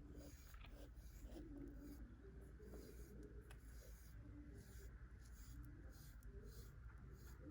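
Pet brush stroking through a cat's fur: faint, repeated scratchy swishes, roughly one to two strokes a second.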